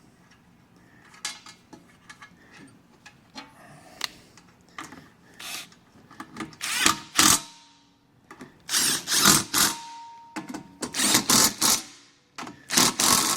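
Cordless drill-driver run in several short bursts. The bursts come in four clusters over the second half, separated by pauses.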